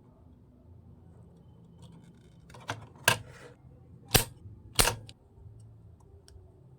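Four sharp mechanical clicks, the second to fourth loud and about half a second to a second apart, over a quiet background.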